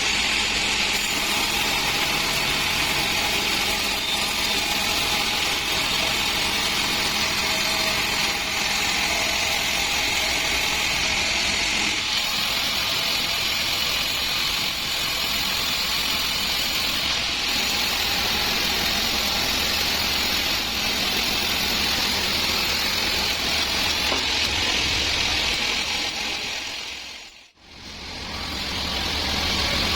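Sawmill band saw running with a steady mechanical noise. It fades out briefly near the end and comes back with a deeper engine hum.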